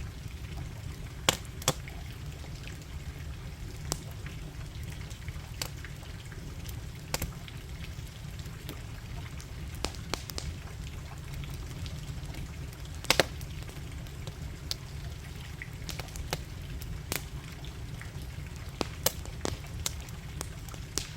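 Wood bonfire crackling, with scattered sharp pops, the loudest a pair just over a second in and another pair about thirteen seconds in, over a low steady rumble.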